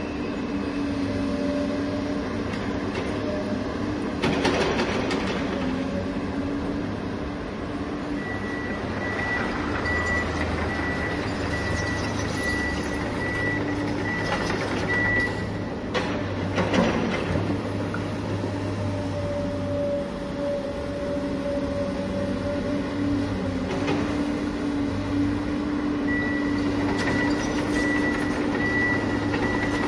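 Steady heavy-vehicle engine drone, with a short repeated beep like a reversing beeper sounding through the middle and again near the end.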